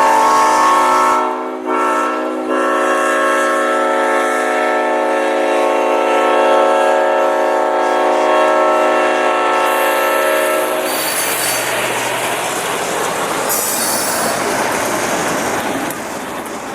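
Diesel locomotive horn, a GE U-boat's, blowing one long chord with a brief break about a second and a half in. It cuts off after about ten seconds, and the noise of the train rolling past follows.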